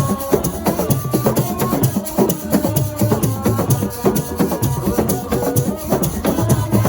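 Assiko percussion music: drums and rattling shakers played in a fast, dense, steady rhythm.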